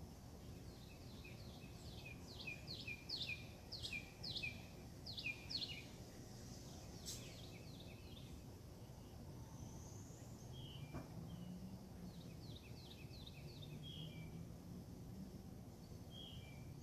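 A songbird singing two runs of quick, repeated down-slurred chirps, the first run louder, over a steady low background rumble.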